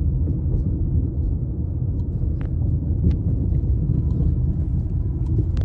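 Steady low rumble of a moving car heard from inside, with a couple of faint clicks about two and a half and three seconds in.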